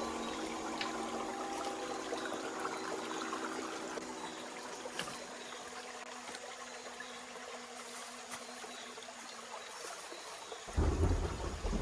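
Running water trickling steadily, with background music fading out over the first few seconds. A sudden low rumble comes in near the end.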